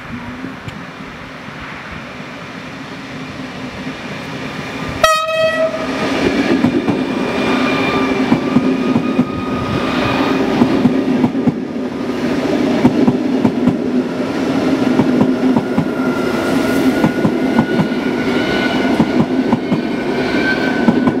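ED250 Pendolino high-speed train sounding a short horn blast about five seconds in, then passing through the station at speed. The rush and clatter of its wheels over the rail grows louder and runs on as the long set goes by, over a steady hum.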